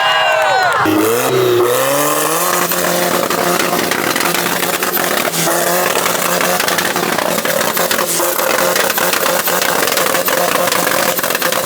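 Car engine held on a two-step launch limiter: the revs climb over the first couple of seconds, then hang at one steady pitch with rapid popping and crackling from the limiter cutting spark.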